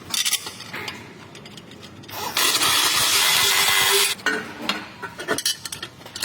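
Workshop clatter of tools: scattered clinks and knocks, with a loud steady hiss lasting under two seconds in the middle.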